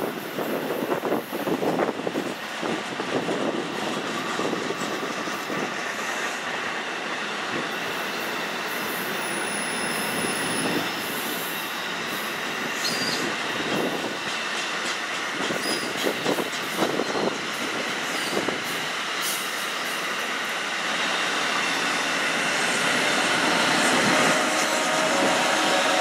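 Electric passenger train running on the rails, wheels clattering over the track with thin high squealing, growing louder toward the end.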